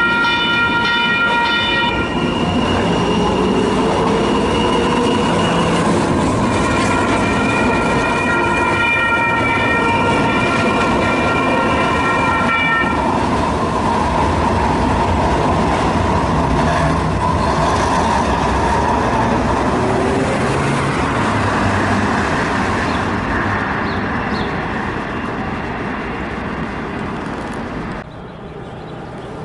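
Light rail train passing close, sounding its horn: one held blast ends about 2 seconds in, and a longer one runs from about 6 to 13 seconds in, over the rumble of wheels on rail. The rumble fades in the last several seconds.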